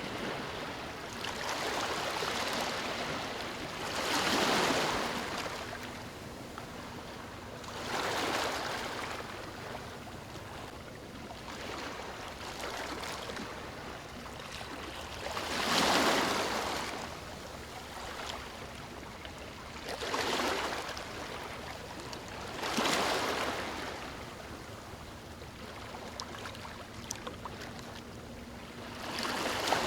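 Ocean waves washing onto a beach: the surf swells and fades in about six surges, each a few seconds apart, with a steady hiss of water in between.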